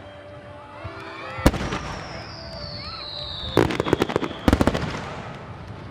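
Aerial fireworks shells bursting over the sea: one loud bang about a second and a half in, a long whistle slowly falling in pitch, then two quick clusters of crackling reports near the four- and four-and-a-half-second marks.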